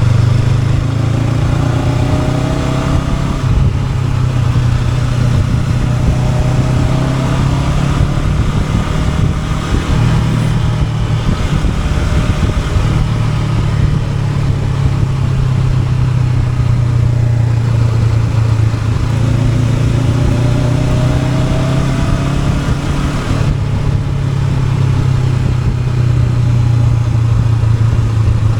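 Honda NX500 parallel-twin motorcycle engine under way, its pitch rising a few times as it accelerates and easing off between.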